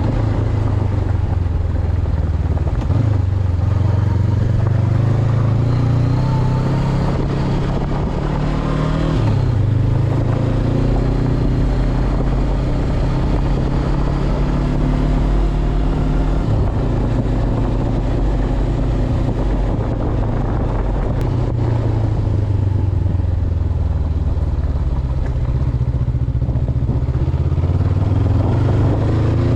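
Honda CB500X's parallel-twin engine running under way, its note stepping up and down a few times with throttle and gear changes.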